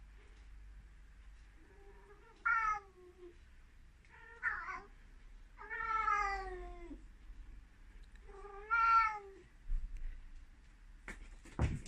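Ragdoll cat meowing loudly and repeatedly: four loud meows, the third longest and falling in pitch, with fainter low calls between. A few sharp knocks near the end.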